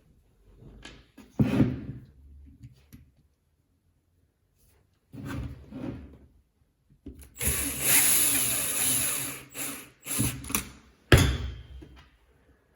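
Catpower 6120 electric angle grinder switched on in short bursts, each winding down when released, with one longer run of a few seconds in the middle.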